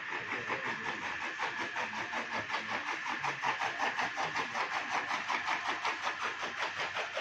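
New Holland tractor's diesel engine running steadily at idle, with an even, rhythmic chug.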